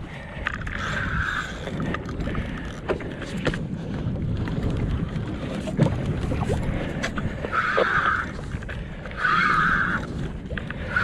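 Fishing reel drag buzzing in several short bursts as a hooked fish pulls line, with scattered clicks and knocks over wind rumble on the microphone and water noise against the kayak.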